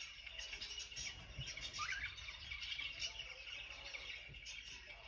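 Pet lovebirds chirping in a rapid high twitter, with one rising call about two seconds in.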